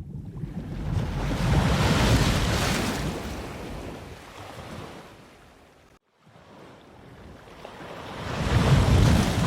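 Ocean waves breaking on the shore: a wave surges in, peaks and washes back out, the sound cuts off suddenly about six seconds in, then a second wave builds and breaks near the end.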